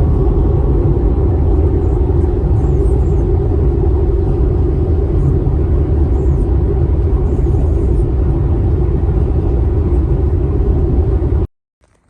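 A car driving: a steady, loud low rumble of engine and road noise, which cuts off abruptly near the end.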